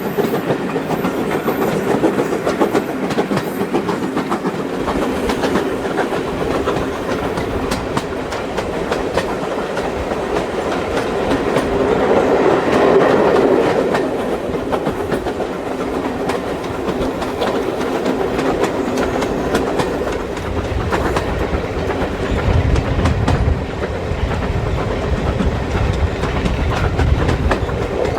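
Steam-hauled passenger train running along the line, its wheels clicking over the rail joints in a steady clatter, with a swell in the middle and a deeper rumble building later on.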